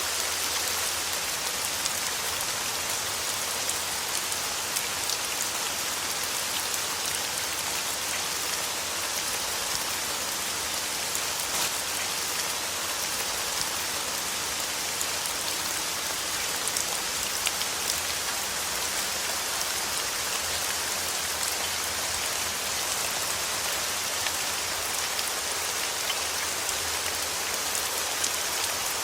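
Steady rain falling: an even hiss dotted with many fine drop ticks, unchanging throughout.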